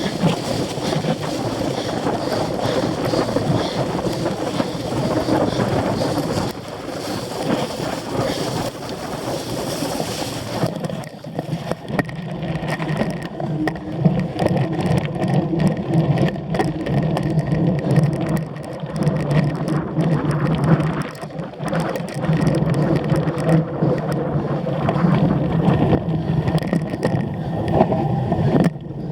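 Cyclocross bike being ridden at race pace: wind rushing over the microphone, tyre noise, and frequent sharp rattles and knocks from the bike over rough ground. About a third of the way in, the wind rush drops and a steady low hum comes forward, with the rattles and knocks running on.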